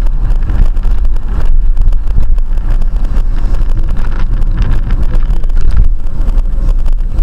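Steady, loud low rumble of a vehicle on the move, with wind buffeting the microphone.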